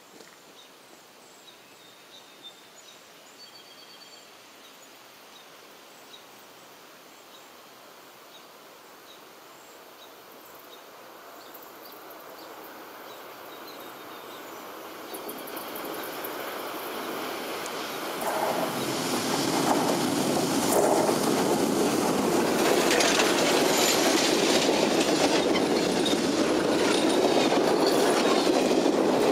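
Passenger train approaching from a distance and passing close by. Faint at first, it grows steadily louder for about the first two-thirds. The wheel noise is then loud, with rapid clicking of wheels over rail joints as the coaches go by.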